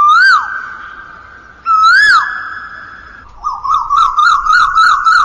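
Bird calling loudly with clear whistled notes: two single calls that rise and then drop, then a quick run of wavering notes near the end.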